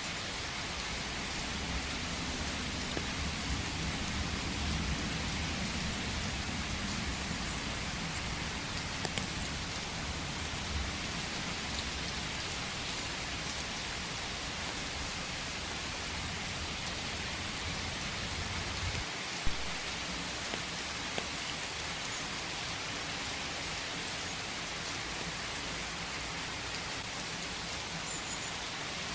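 Steady rain falling on surfaces. A low rumble runs underneath for the first two-thirds and cuts off suddenly, followed by a single sharp tick.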